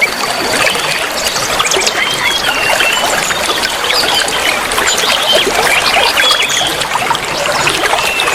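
Many small birds chirping and twittering at once, short whistled notes and trills, over a steady trickle of running water.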